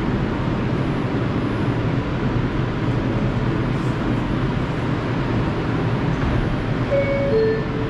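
R142 subway train pulling out after its doors close, a steady rumble with two brief short tones near the end.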